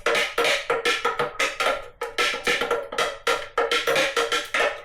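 A utensil stirring descaler powder into the water in a coffee machine's plastic water tank, knocking quickly and irregularly against the tank walls, about five hard clacks a second.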